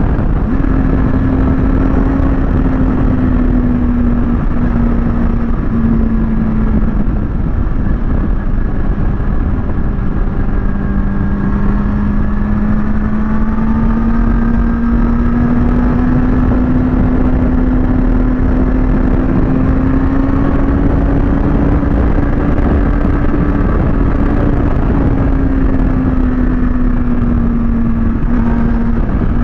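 Kawasaki ZX-6R's inline-four engine running at a steady cruise, its note slowly dipping and rising again, over a constant rush of wind noise.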